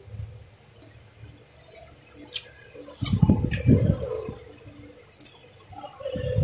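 Close-up wet chewing and mouth sounds of someone eating grapes: small clicks and squelches, louder for a second or so about three seconds in and again near the end.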